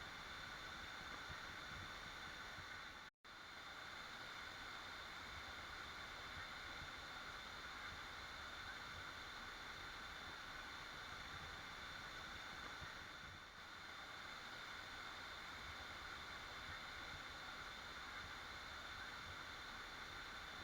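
Waterfall rushing as a steady, even wash of water noise, which drops out for an instant about three seconds in.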